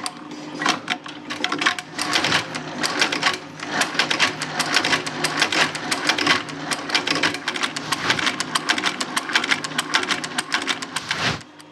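Shoe sole-stitching machine running, a fast steady clatter of stitch strokes over a motor hum, then stopping abruptly near the end. The machine is balking at the corner of the sole and making stitches too short.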